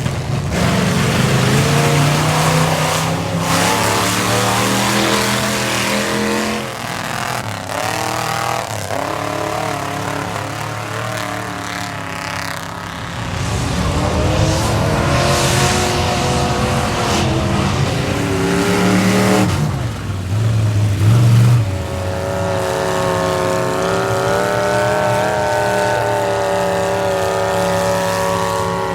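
Square-body Chevrolet pickup's engine revving hard on a mud bog run, its pitch rising and falling repeatedly. It peaks loudest about two-thirds of the way in, then holds a steadier high pitch.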